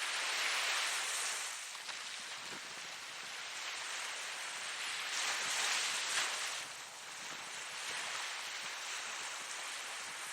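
Ocean waves breaking and washing on the shore, a steady hiss of surf that swells twice.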